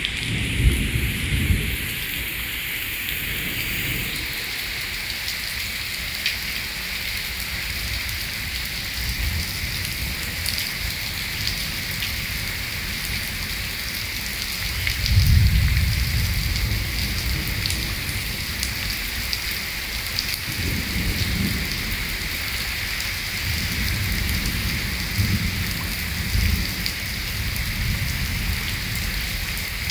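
Heavy rain falling steadily on pavement and lawn, a constant hiss. Low thunder rumbles come in about halfway through and again in the last third.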